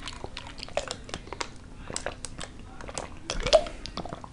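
Close-miked chewing of a burrito: irregular wet mouth clicks and smacks as a person eats.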